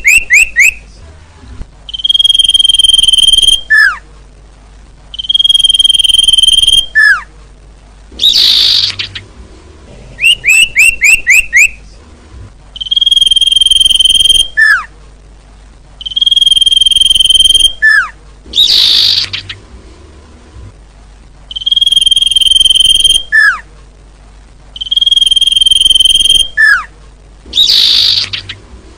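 Looped bird-lure recording of small songbird calls. Rapid runs of quick downward chirps are followed by two long, steady whistled notes and then a harsh, buzzy call. The sequence repeats about every ten seconds.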